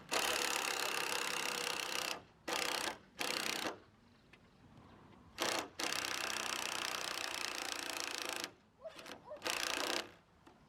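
Power tool running in repeated bursts, from a fraction of a second to nearly three seconds long, stopping and starting several times.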